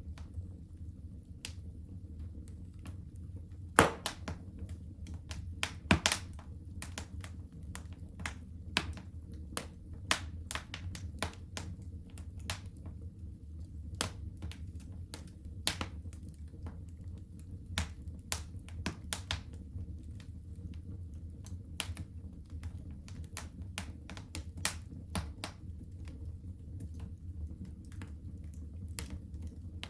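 Wood fire in a fireplace crackling: irregular sharp pops and snaps over a steady low rumble, the two loudest pops about four and six seconds in.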